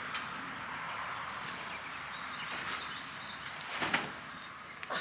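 Birds chirping in short high notes over a steady outdoor hiss, with a brief rustling clatter about four seconds in and another near the end.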